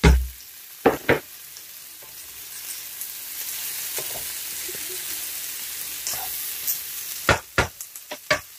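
Shredded turkey and chopped celery and carrots sizzling in a hot oiled pan, the hiss swelling in the middle. A few sharp knocks of a utensil against the pan come near the start and again near the end.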